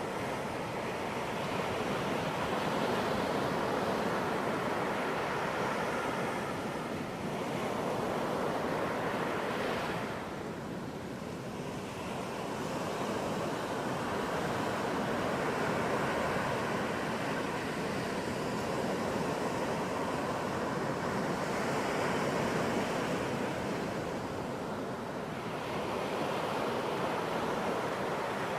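Ocean surf breaking on a beach: a continuous wash of waves that swells and eases in slow surges every several seconds.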